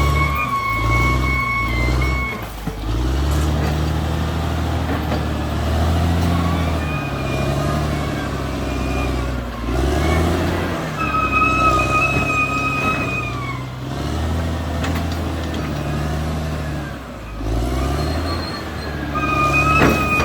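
Diesel engine of a Caterpillar D6R XL crawler bulldozer working, its pitch rising and falling again and again as the load changes. A high whine comes and goes several times over it.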